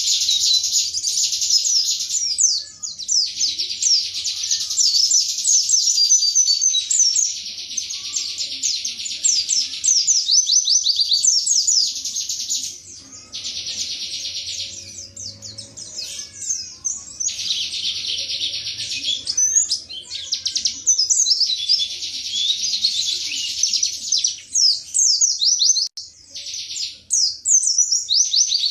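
A white-eye (pleci) singing a long, fast, high-pitched song of rapid chirps and trills, broken by a few short pauses.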